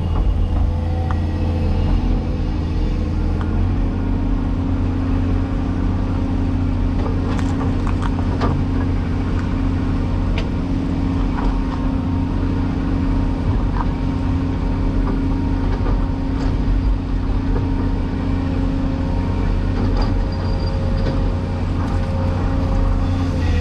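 Cat 336E excavator's diesel engine running steadily under work, with a few faint clicks.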